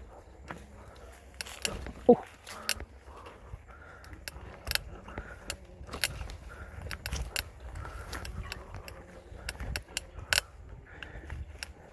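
Polygon Xtrada 5 mountain bike rattling and clicking over a rough trail: irregular sharp metallic clicks and jangles from the chain and drivetrain over a low rumble of tyres. A brief squeak about two seconds in is the loudest sound.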